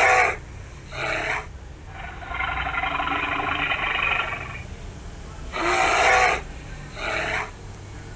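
Polar bear calling: a string of about six short, rough calls, with one longer call in the middle.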